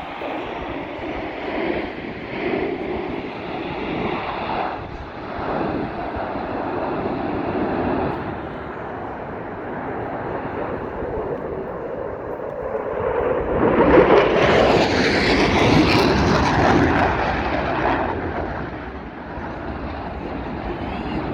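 Airplane engine in flight, growing louder to a peak about two-thirds of the way through as the aircraft passes close, then fading.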